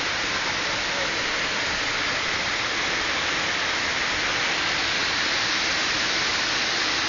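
Waterfall plunging into a valley, a steady, unbroken rush of falling water.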